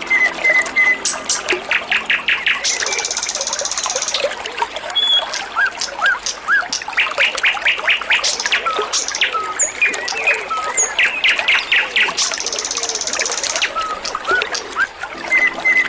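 Small songbird chirping continuously in short calls and fast trills over a steady trickle of running water.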